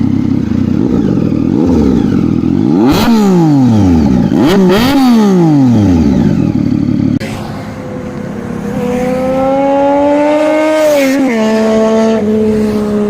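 Triumph Street Triple's three-cylinder engine revved hard several times, the pitch shooting up and falling away with each throttle blip. After a cut about halfway through, the engine pulls with a slowly climbing pitch that drops in two steps near the end.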